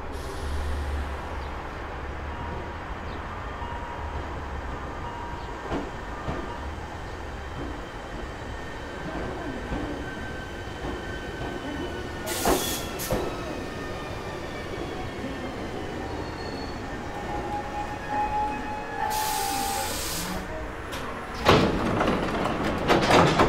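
Hankyu 3300 series electric train running. A steady rumble of wheels on rail carries thin motor whine tones that glide in pitch. There are a couple of sharp clanks about halfway through, a short hiss a little later, and louder clattering near the end.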